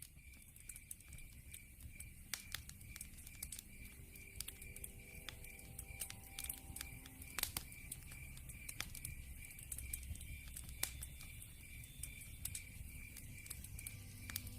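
Log fire crackling in a fireplace, with many sharp pops over a low rumble. A steady high chirp, the night sound, repeats about three times a second.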